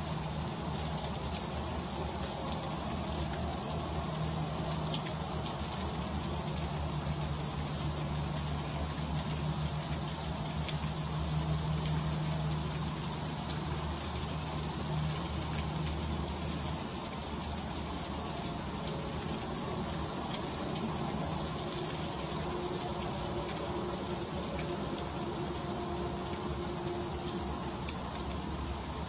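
Freezing rain falling steadily: a constant hiss dotted with many small ticks of drops striking surfaces. A low hum runs underneath and fades out a little past halfway.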